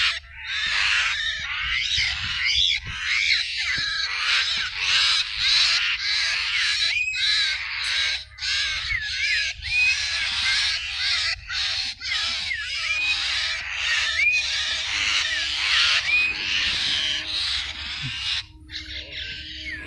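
Small bird squawking harshly and without pause in distress, with short rising chirps mixed in, as it is held by a frog.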